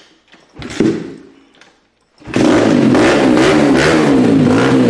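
Dirt bike engine starting: a short sputter about a second in, then the engine catches about two seconds in and runs loudly, revving up and down.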